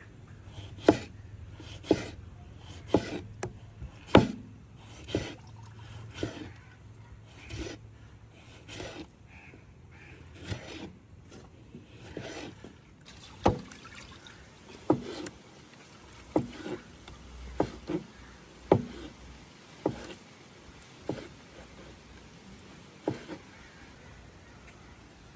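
A series of sharp knocks, about one a second at first, then more irregular and spaced out.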